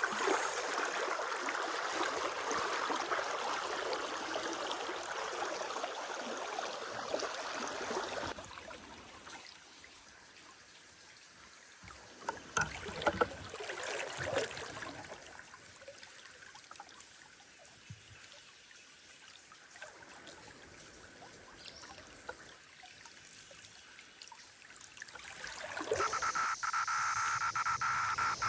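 River water rushing, cutting off abruptly about eight seconds in, followed by a quieter stretch of faint water sound. Near the end a steady, loud chorus of cicadas buzzing comes in.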